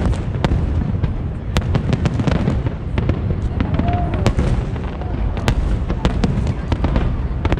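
Fireworks going off: a continuous low rumble of explosions with many sharp cracks and pops over it.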